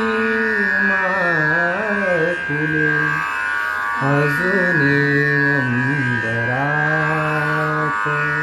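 A singer sustaining and ornamenting a phrase of a Marathi song in Indian classical style, the voice sliding and shaking around held notes and pausing briefly near the middle, over a steady drone accompaniment.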